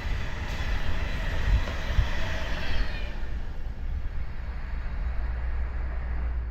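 Train running on rails with a steady low rumble. A faint high whine fades away over the first three seconds.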